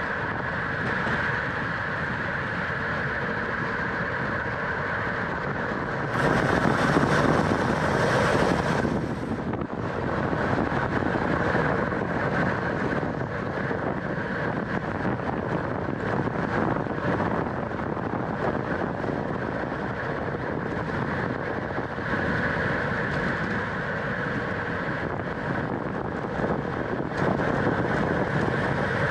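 Wind rushing over the microphone of a camera on a racing bicycle at speed, mixed with tyre and drivetrain noise; a louder gust of wind noise lasts about three seconds, starting around six seconds in.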